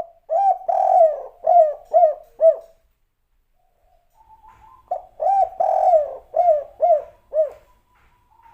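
Spotted dove (tekukur/derkuku) cooing its 'kuk 3' song twice. Each phrase is a short coo, a long slurred coo, then three short 'kuk' notes.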